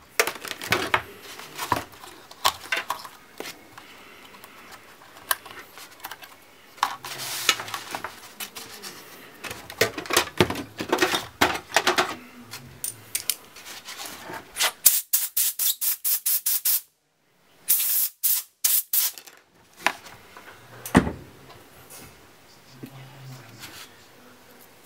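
Clicks, taps and knocks of hands working on a laptop's plastic and metal parts, with a fast even run of clicks in the middle and one sharper knock near the end.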